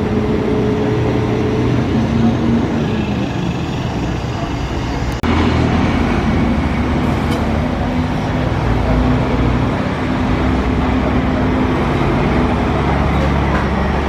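Truck engines running amid road traffic noise, with a steady low hum. The sound cuts abruptly to a different engine about five seconds in.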